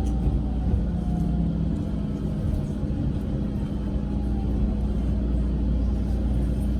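Local train running, heard from inside the carriage: a steady low rumble with a constant hum and a faint whine that slowly falls in pitch, as the train slows toward the next station.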